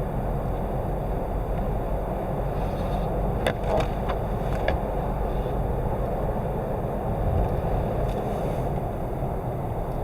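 Steady rumble of a car driving, heard from inside the cabin, with a few short clicks a little before the middle.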